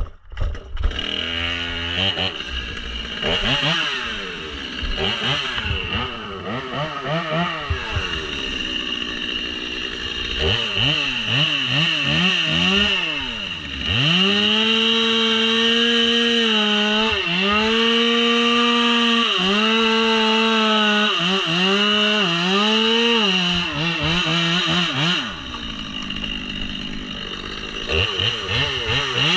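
Two-stroke chainsaw running, its engine revved up and down repeatedly, then held at high speed with short dips for about ten seconds. Near the end it drops back to a lower speed before revving up again.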